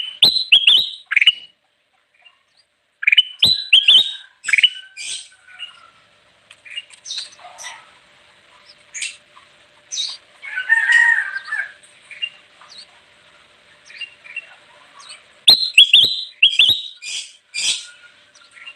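Kutilang emas, a bulbul, singing: bursts of sharp, quick chirping notes broken by short pauses, with a warbled phrase in the middle and a loud flurry of notes near the end.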